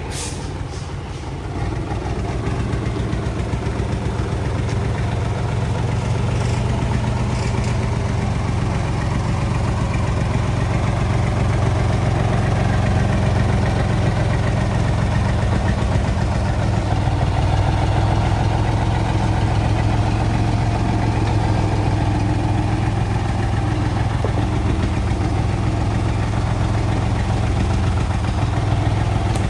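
Truck engine running steadily while driving, growing louder about two seconds in.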